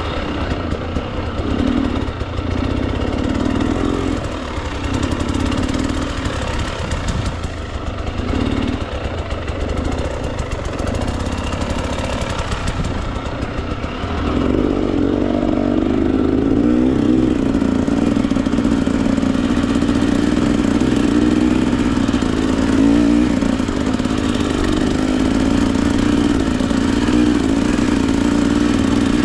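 Husqvarna TE 300 two-stroke dirt bike engine riding on trail: throttle blipped on and off in short bursts, then from about halfway held on steadily and louder.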